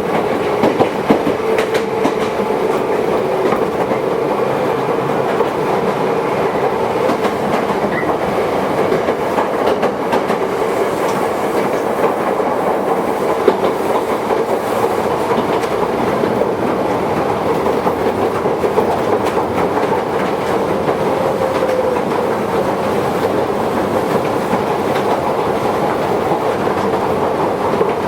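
Toyohashi Railway 1800 series electric train (a former Tokyu car) running steadily between stations, heard inside the car: an even roar of wheels on rail with a constant hum and the clack of wheels over rail joints.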